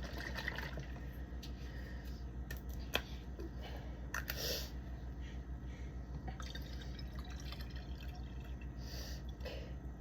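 Orange juice poured into a child's cup that already holds water, trickling and dripping, with a sharp click about three seconds in, over a steady low hum.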